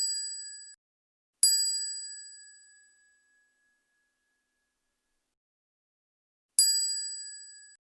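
A bright metallic bell ding, struck twice: once about a second and a half in and again near the end, each ringing out and fading over about a second, with the dying tail of an earlier ding at the start and dead silence between.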